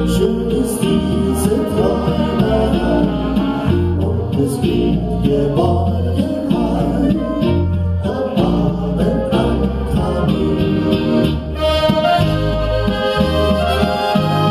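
A band playing live, with singing over a steady bass line and a regular beat.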